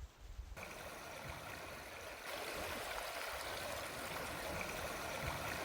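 Steady rushing of a flowing stream, cutting in suddenly about half a second in and growing louder about two seconds in.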